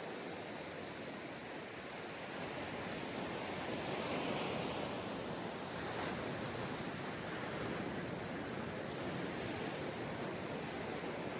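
Ocean surf washing onto a beach: a steady rush of water, with one wave swelling up about two seconds in, cresting around four to five seconds, then settling back into a steady wash.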